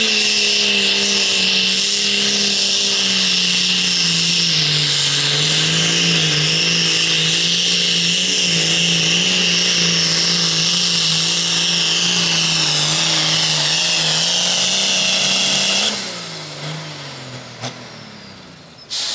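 A light limited super stock pulling tractor's engine runs at full power under load for about 16 seconds, with a strong high whine over the engine note. Then the engine is cut back and its pitch falls away as it winds down, and a short loud burst comes near the end.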